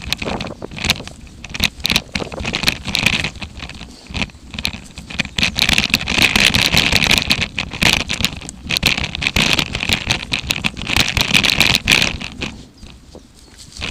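Footsteps crunching and scraping over rotten wooden railway sleepers and the ground around them: a dense run of crackles and crunches that drops off near the end.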